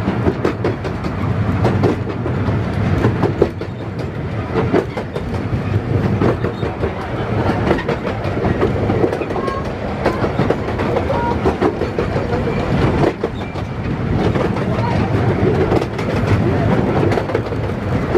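Miniature railway train running along the track, heard from on board: a steady rumble with the wheels clicking rapidly over the rail joints.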